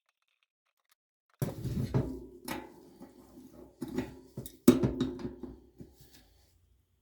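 Hard objects clattering and knocking, several strikes with a short ringing after them, starting about a second and a half in, with the loudest strike past the middle.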